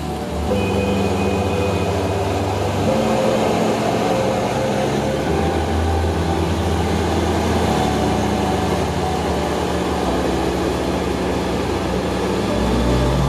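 Ferrari convertible's engine running steadily as the car drives slowly. A low hum shifts in pitch every few seconds.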